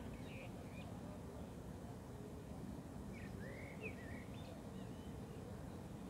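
Birds calling in short whistled, sliding notes: a few near the start and a cluster from about three to four and a half seconds in, over a steady low outdoor rumble.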